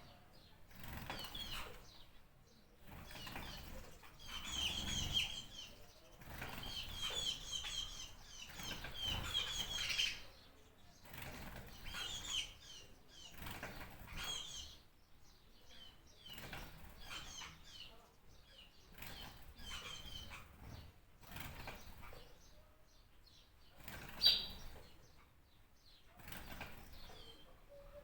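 Small birds chirping in quick, high twittering bursts, each a second or so long, over a rushing noise, with one sharper, louder chirp near the end.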